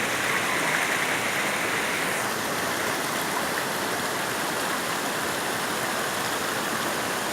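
Waterfall: a steady rush of falling water, its hiss changing slightly about two seconds in.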